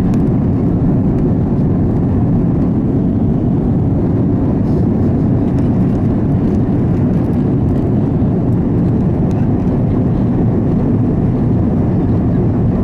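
Steady, loud low rumble of an Airbus A330 airliner on its landing run, heard from inside the cabin: engine and airflow noise with no distinct events.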